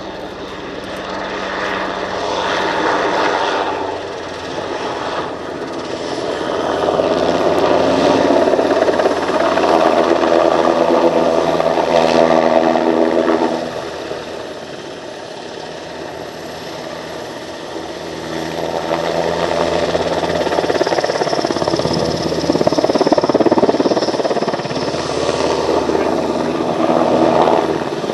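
NH90 helicopter flying a display, its rotor beating and twin turbines whining. The sound swells, fades about halfway through, then swells again as the helicopter passes and turns.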